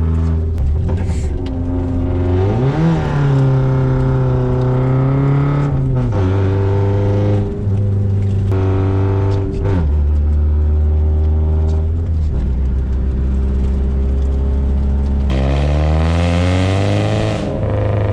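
BMW engine running under hard throttle while drifting on ice, revving up sharply and falling back several times, with big rises about three seconds in and again near the end.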